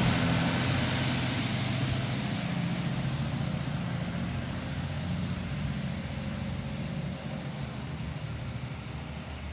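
Garbage truck engine running and fading steadily as the truck pulls away.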